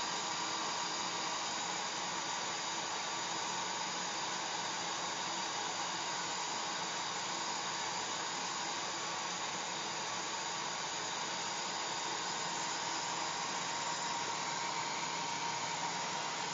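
Hair dryer running steadily: an even blowing rush with a faint steady whine from its motor.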